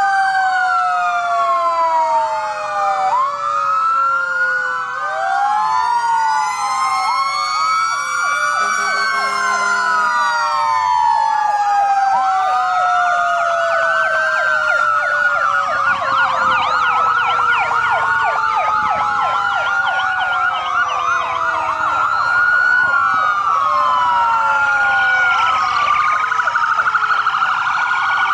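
Many emergency-vehicle sirens sounding at once: several wailing sirens rise and fall out of step with one another, and fast yelping sirens join in about halfway through, over a long, slowly falling tone.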